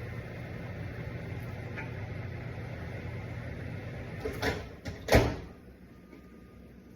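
Steady low hum, then two knocks about a second apart near the end, like a kitchen door or cupboard shutting. After the knocks the hum drops away.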